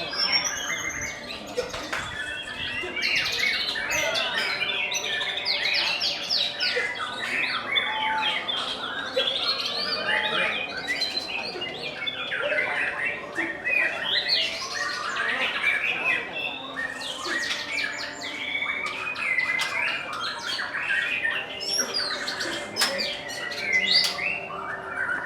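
Many caged songbirds singing at once: a dense, continuous chorus of overlapping chirps, trills and whistles.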